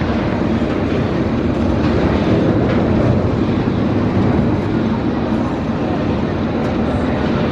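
Roller coaster train running along its steel track, a steady loud rumble.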